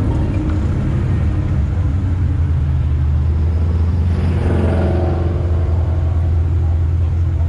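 Chevrolet Nova's engine running at low speed in slow traffic, picked up close by a hood-mounted camera: a deep, steady rumble. Around halfway through, a brief higher engine note rises and fades over it.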